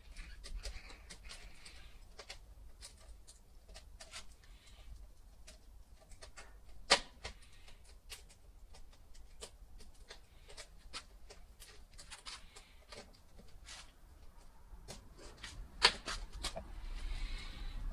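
Wood fire crackling: irregular sharp snaps and pops, with two loud pops about seven seconds in and near the end.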